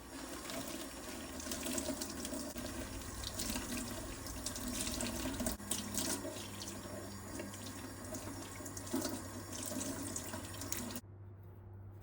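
Water running from a tap into a sink, cut off suddenly near the end.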